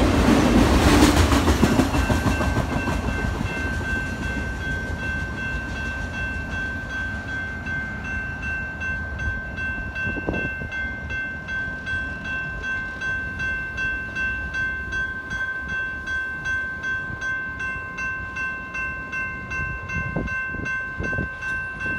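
Freight cars of an empty autorack train rolling past with a rumble that fades as the end of the train goes by and draws away. A railroad crossing bell rings steadily at about two strokes a second.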